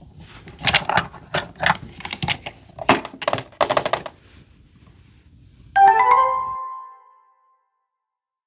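A quick run of sharp clicks and clacks, then a short bright chime about six seconds in that rings out and fades within a second.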